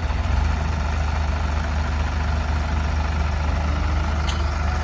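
New Holland 3036 tractor's diesel engine running steadily with a deep, even rumble.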